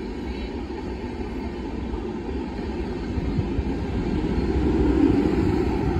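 Express passenger train's coaches rolling past: a steady rumble of wheels on rail that swells louder about four to five seconds in.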